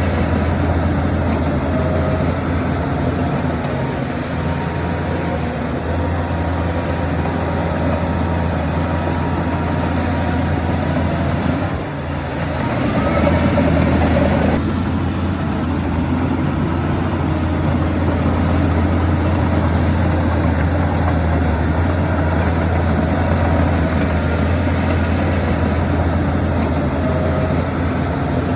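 Heavy diesel engines of earthmoving machinery running steadily with a low hum. About twelve seconds in the sound dips briefly, then comes a louder, harsher spell that cuts off suddenly a couple of seconds later.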